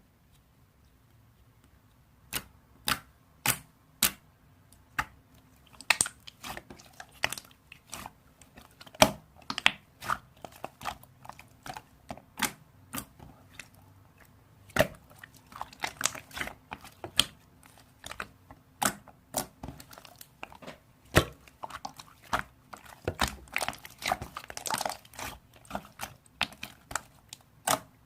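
Close-up crisp crunching clicks, irregular, from one to several a second, starting about two seconds in.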